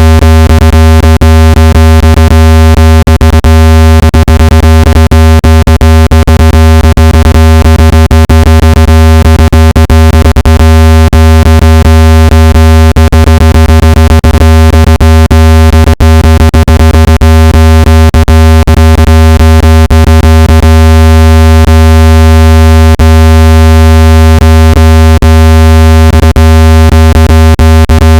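Synthetic speaker-cleaning tone for ejecting water and dust from a phone speaker: one steady, loud, low-pitched buzzing tone rich in overtones, peppered with rapid clicks.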